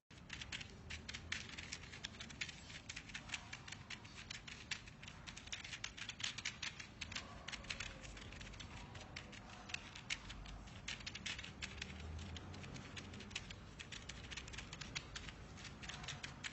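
A dense, irregular run of small sharp clicks and taps.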